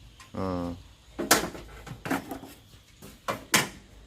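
Sharp knocks and clanks, four of them, from work on an air conditioner, with a brief falling voice-like sound near the start.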